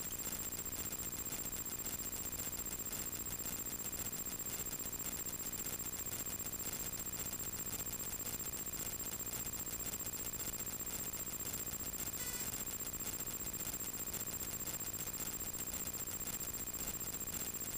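Steady hum and high whine of a light aircraft's cockpit intercom audio during landing, with the engine heard only as a low, even drone. A faint, brief tone comes about twelve seconds in.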